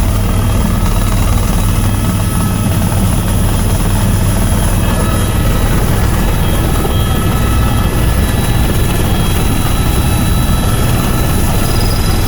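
Tour helicopter in flight: loud, steady drone of rotor and turbine engine, strongest in the low end, with thin steady whines above.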